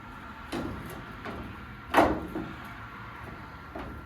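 A few separate metal knocks and clanks of hand tools or clamps being picked up and set in place, the loudest about two seconds in, with a faint steady tone underneath.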